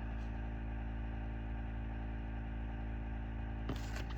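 Steady low hum of room tone with a brief rustle near the end.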